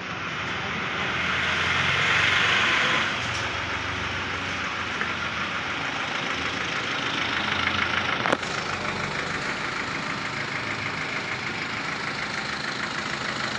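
BMW car engine idling steadily after a full engine rebuild, growing louder over the first three seconds before settling. A single sharp click comes about eight seconds in.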